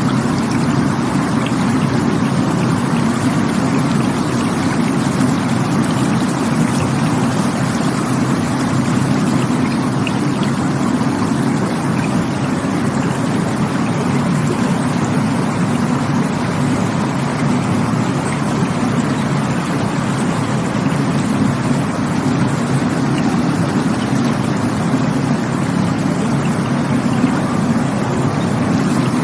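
Rushing water flowing steadily and without a break, a dense low rush with a fainter hiss above it.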